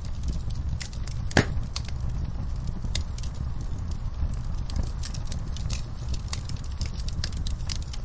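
Wood fire burning in a fireplace: a steady low rumble of flames with frequent small crackles and one louder pop about a second and a half in.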